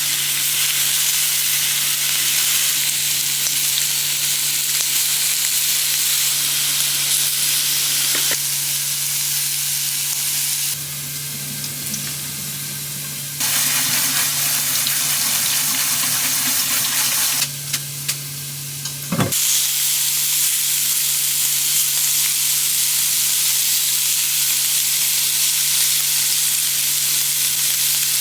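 Food sizzling steadily in a hot frying pan, with a constant low hum under it and two short quieter stretches partway through.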